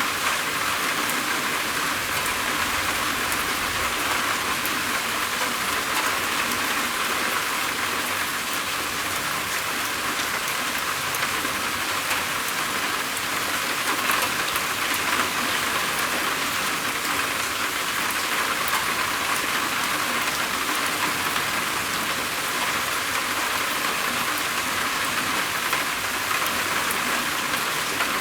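Steady heavy rain falling on a roof: an even hiss of rain with many fine, separate drop ticks, unchanging throughout.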